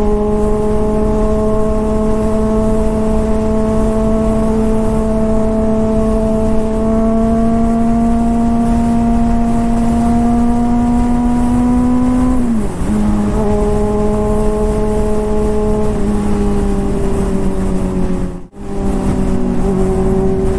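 Honda CBR600RR inline-four engine running steadily under throttle, with a steady pitch that creeps slowly upward. About twelve seconds in the pitch dips briefly, as at a shift or throttle roll-off, and there is a momentary drop-out near the end. A low wind rumble runs underneath.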